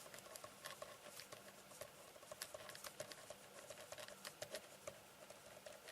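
Near silence with many faint, irregular light clicks and taps over quiet room tone.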